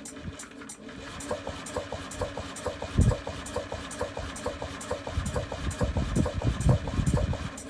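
Small moped scooter engine running at idle, with a regular ticking about four times a second that comes in about a second in, and a few heavier low surges along the way.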